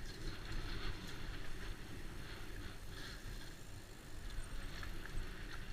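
Trek Slash mountain bike riding down a dirt trail: a steady rush of wind and tyre rumble with a few faint knocks from the bike over the bumps.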